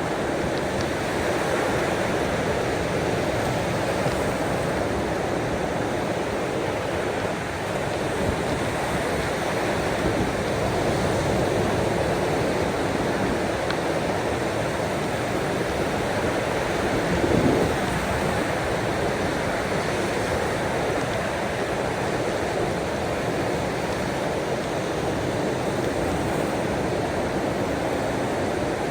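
Ocean waves and rain: a steady wash of water noise, with one slightly louder surge about two-thirds of the way through.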